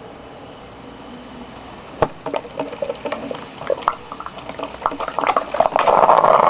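Sunbeam drip coffee maker's heating element starting up again: quiet at first, then crackling, popping gurgles from about two seconds in that grow busier, turning near the end into a loud steady hiss of steam and boiling water as brewing resumes. The machine is brewing very slowly, only half a pot in 21 minutes.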